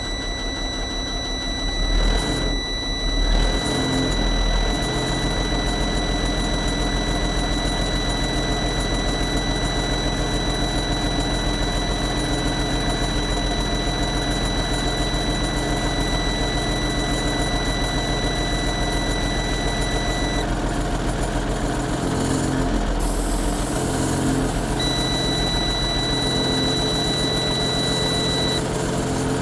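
Freightliner FL70's Caterpillar diesel engine running at idle, with a louder surge a couple of seconds in. A steady high-pitched tone sounds over it, stops about twenty seconds in, and comes back briefly near the end.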